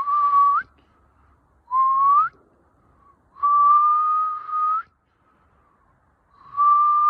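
A person whistling four notes, each held level and flicking upward at the end, the third held much longer than the others. No pecking is heard.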